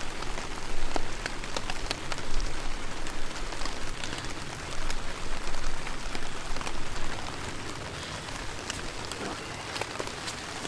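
Heavy rain pattering steadily on a tarp overhead, with scattered louder individual drops hitting close by. It is louder and more uneven for the first seven seconds, then settles to a steadier patter.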